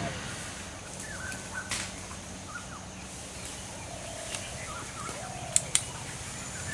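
Faint, scattered bird calls over a steady low hum, with two sharp clicks in quick succession about five and a half seconds in.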